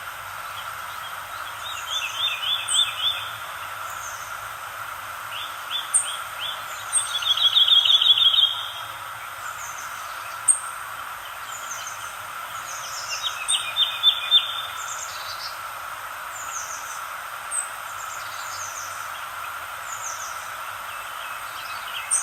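Songbirds singing: a rapid trill repeats every five seconds or so, with short high chirps from other birds in between, over a steady background hiss.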